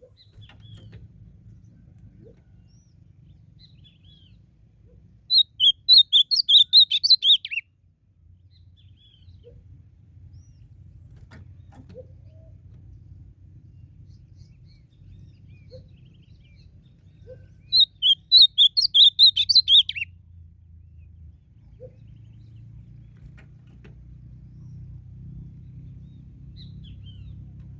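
Ultramarine grosbeak (azulão) singing two short, loud song phrases of quick warbled notes, about twelve seconds apart.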